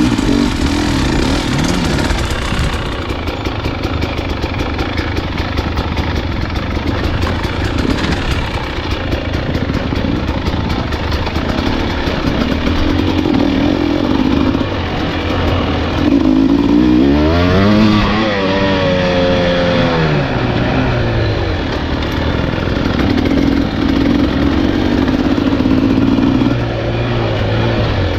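Dirt bike engine running under load while riding a trail, the revs rising and falling with the throttle. There is a run of revs climbing and then dropping off about two-thirds of the way through.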